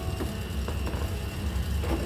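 Low rumble of storm wind against the cabin, with a few faint light clicks and knocks.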